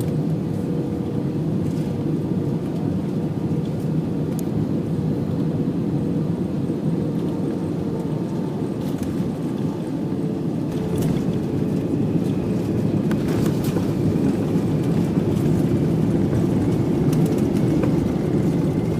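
Airliner cabin noise: a steady low rumble of jet engines and airflow, growing a little louder over the last several seconds, with a few faint clicks.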